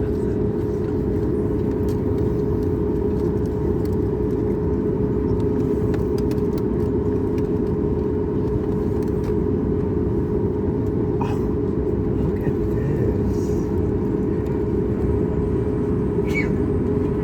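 Steady low rumble of cabin noise inside a Boeing 737 MAX 8 on the ground before takeoff, with a faint steady hum above it and a few light clicks.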